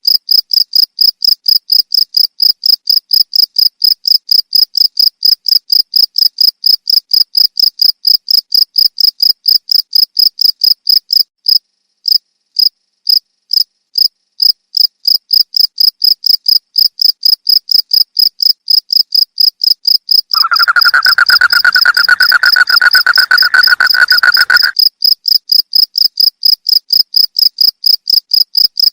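Crickets chirping in a steady, even pulse of about four chirps a second. About two-thirds of the way through, a lower, denser buzzing trill joins for about four seconds and then stops.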